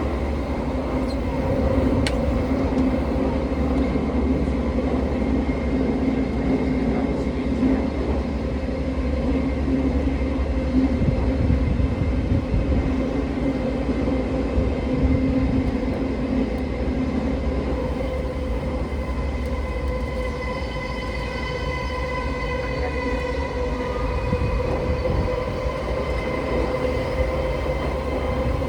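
Odakyu 4000-series electric train heard from inside the car running through a subway tunnel: a steady rumble of wheels on rail with a low motor hum. About two-thirds of the way through, a higher, multi-toned motor whine comes in.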